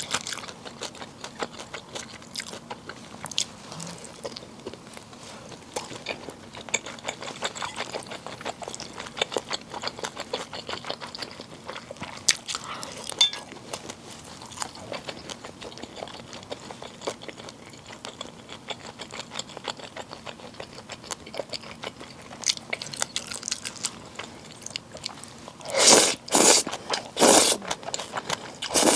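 Close-miked eating sounds of bibim naengmyeon, spicy Korean cold noodles: steady wet chewing with many small crunchy clicks, then two loud half-second bursts near the end as noodles are slurped.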